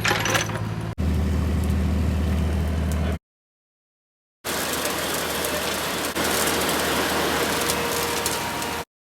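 Two edited clips of heavy digging equipment. First a diesel engine runs steadily with a low hum. After a brief gap in the audio comes a loud, even rushing noise that steps up slightly partway through.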